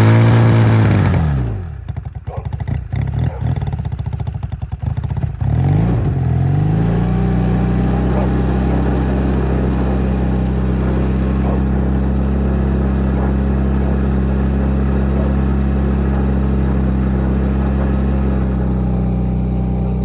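Old Honda motorcycle engine revved up and back down, running unevenly at a low idle for a few seconds, then revved again and held at a steady speed.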